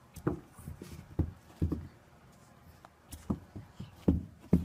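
A series of irregular soft, low thumps and knocks, about eight of them, clustered near the start and again near the end.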